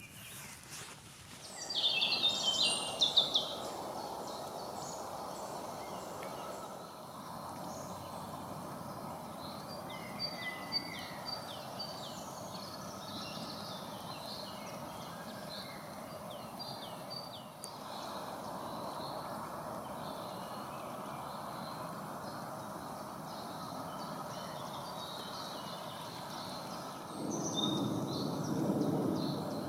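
Wild birds singing and calling, with a loud burst of song about two seconds in and scattered chirps and trills after it, over a steady background rush. A louder low rushing comes in near the end.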